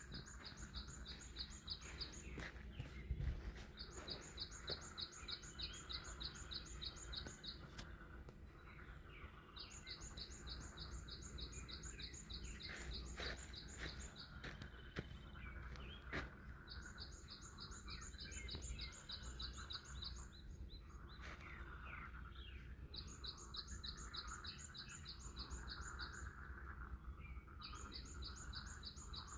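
A frog chorus croaking steadily. Over it, one close caller gives bouts of rapid, evenly pulsed high-pitched calls a few seconds long, six times with short pauses between.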